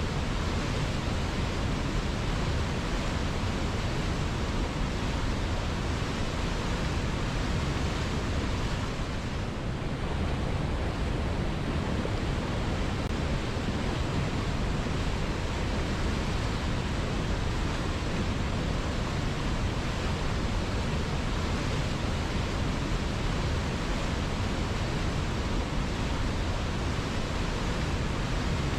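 River water flowing, a steady, even rushing sound with no breaks.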